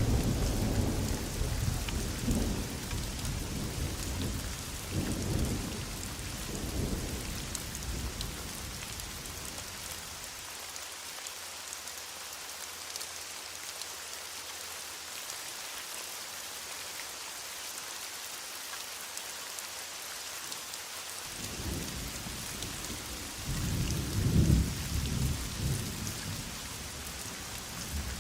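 Heavy rain falling steadily, with thunder rumbling through the first several seconds and fading out. The thunder returns about two-thirds of the way in, with its loudest peak near the end.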